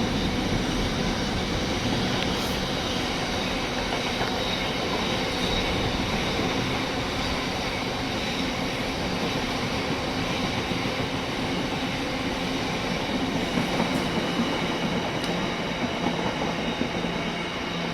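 Two freight trains hauled by Class 60 diesel-electric locomotives running past together. Their wheels make a steady rumble on the rails, with a thin, steady high wheel squeal over it.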